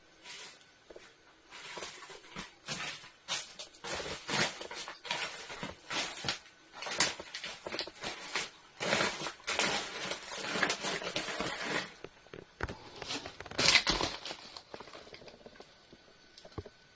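Irregular rustling and crunching noises in dense clusters, dying away in the last couple of seconds.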